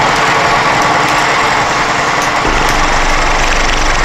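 Milling machine running steadily as a milling pass begins, with a lower rumble joining about two and a half seconds in.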